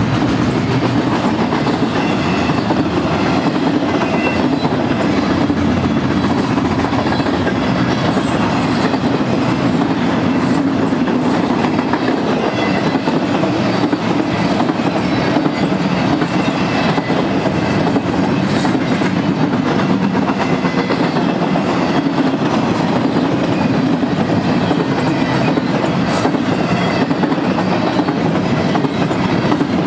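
Double-stack intermodal container train's loaded well cars rolling past: a steady rumble and clatter of steel wheels on the rails, with faint high squeaks now and then.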